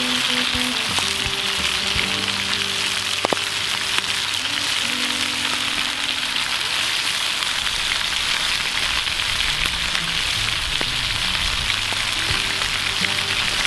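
Food frying in hot oil over a campfire, a steady continuous sizzle.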